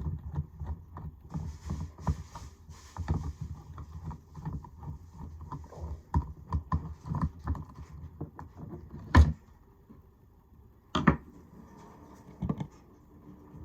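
Handling noise of small hard plastic objects: a run of light clicks and taps, then two louder sharp knocks in the second half before it goes quieter.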